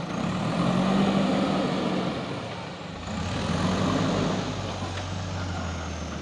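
Heavy diesel engine running steadily; about three seconds in its note drops lower and grows a little louder.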